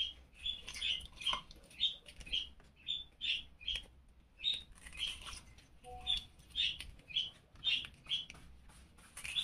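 A small bird chirping over and over: short high chirps about twice a second.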